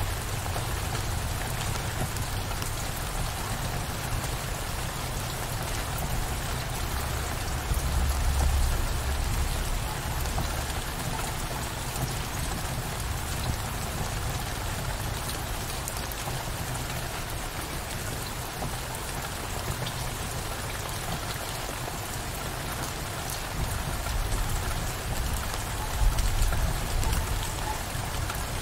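Steady downpour of rain, an even hiss of drops, with low rumbles of distant thunder swelling about eight seconds in and again near the end.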